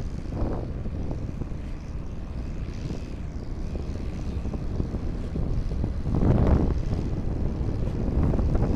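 Motorcycle engine running steadily while riding, with wind rumbling on the microphone; the noise swells louder about six seconds in.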